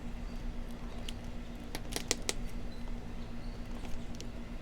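Light clicks and taps of plastic buckles and straps on motocross boots being handled and adjusted, several in quick succession about two seconds in.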